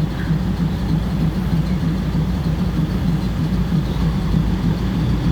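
Diesel train engine idling with a steady low hum.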